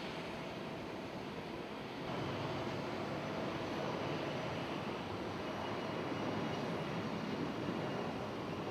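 Jet airliner engines running: a steady rushing noise with faint whining tones, growing louder about two seconds in.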